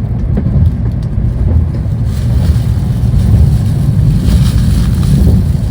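Steady low rumble of a Tokaido Shinkansen bullet train running at speed, heard inside the carriage, with a hiss that grows louder about two seconds in.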